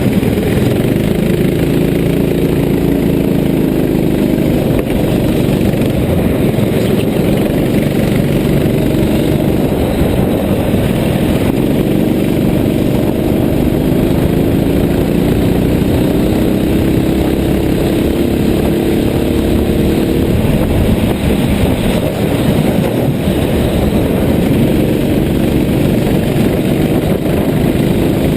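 An engine running continuously under a steady rush of noise, its pitch slowly climbing and falling back a few times as the revs change.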